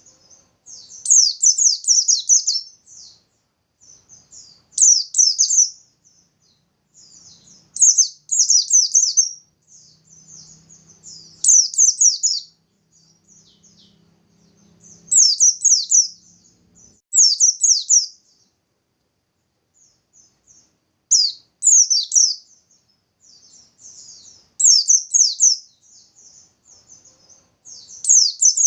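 Pleci (white-eye) of the Bustomi type singing its vigorous 'nembak' song. It comes in fast, high, chattering bursts about a second long, repeated every three to four seconds, with softer twittering in between. This is the kind of song keepers play to set other white-eyes singing.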